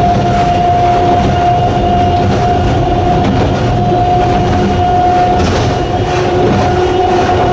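Narrow-gauge Hokusei Line electric train running at a steady speed: the whine of its nose-suspended traction motors holds one steady pitch over a constant rumble of wheels on rail.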